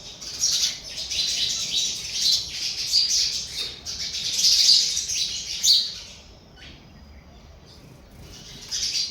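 Sparrows chirping, many short overlapping chirps. The chirping thins out about six seconds in and picks up again near the end.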